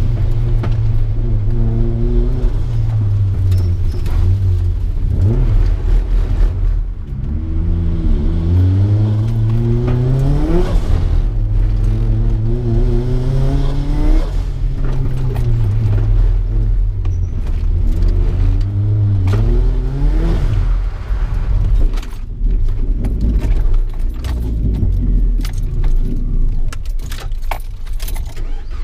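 Mazda MX-5's four-cylinder engine heard from inside the cabin, its pitch climbing and dropping again and again as the car accelerates and lifts between cones on a wet autocross course. Clicks and rattles inside the car come through as well, most clearly near the end.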